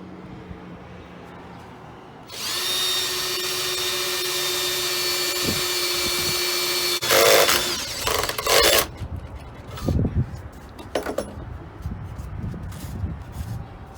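Power drill boring a hole straight down into a wooden deck: a steady motor whine for about five seconds, then a few short, louder bursts as the drill works the bit. Scattered knocks follow near the end.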